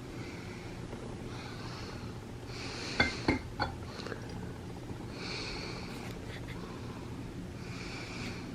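Soft breathing close to the microphone, a breath every few seconds, with three quick clinks of a drinking glass about three seconds in, over a low steady hum.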